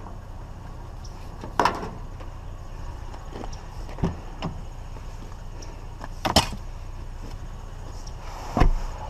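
Scrap being handled and loaded: four separate knocks and clunks, spread a couple of seconds apart, over a steady low hum.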